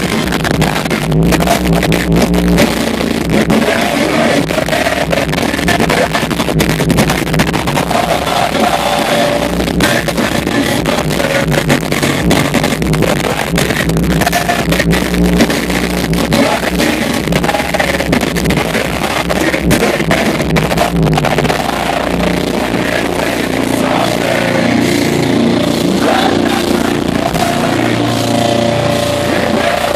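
Metalcore band playing live: electric guitars and a drum kit, loud and dense throughout.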